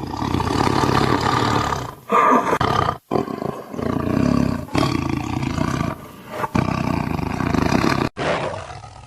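Tiger growling and roaring: a run of about six long, rough, low calls, each broken off by a short gap.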